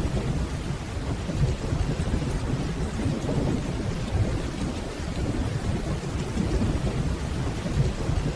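Steady rainfall under a continuous low rumble of distant rolling thunder.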